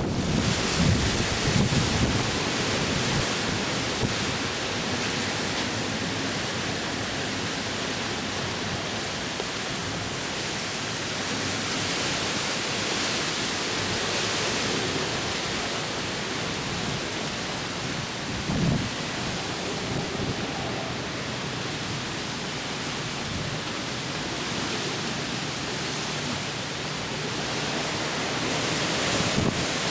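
Hurricane wind and driving rain as a steady rushing hiss, with low gusts buffeting the microphone in the first few seconds and once briefly near the middle.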